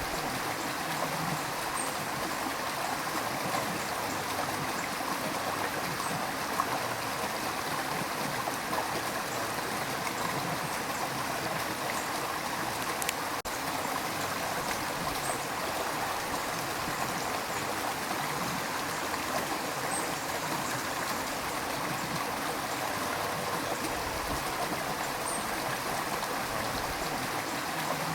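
River water rushing and gurgling over rocks in a steady, even flow.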